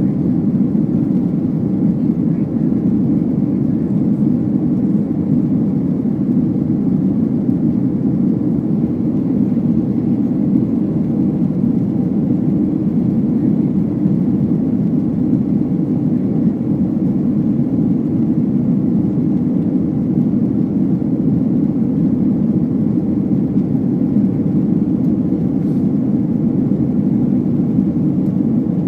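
Steady low rumble of a jet airliner's cabin noise in flight, unchanging throughout.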